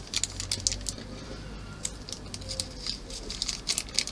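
Light, irregular clicks and taps of small plastic model-kit parts and tiny screws being handled, over a low steady hum.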